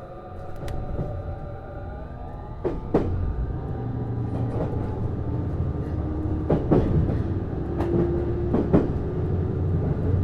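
Interior running sound of a JR East HB-E210 hybrid diesel-electric railcar gathering speed. The Hitachi IGBT-VVVF traction inverter and motors give a whine that rises in pitch over the first two seconds, over a low rumble. The wheels click in pairs over rail joints about three, six and a half, and eight and a half seconds in.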